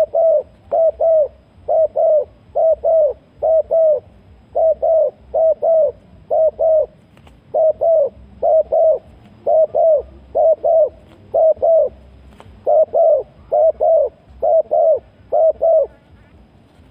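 Spotted dove cooing over and over in short phrases of two or three downward-arching coos, stopping near the end.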